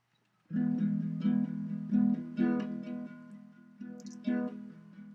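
Acoustic guitar playing the instrumental intro of a slow song, strummed chords starting about half a second in.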